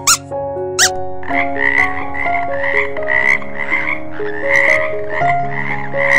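Frog croaking, a raspy call repeated about twice a second, starting about a second in after two short squeaks.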